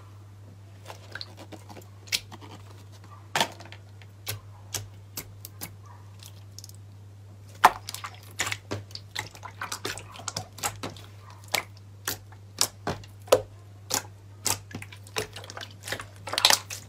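Slime being pressed and worked by hand, giving irregular crisp clicks and pops, more frequent in the second half, over a steady low hum.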